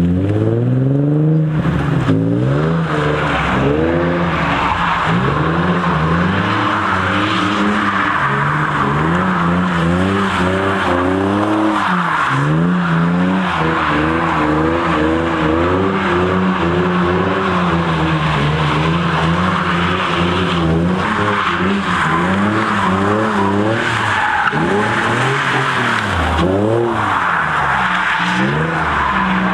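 Nissan VQ35 3.5-litre V6 sports car doing donuts on a wet road. The engine revs rise and fall again and again while the spinning tyres skid and squeal.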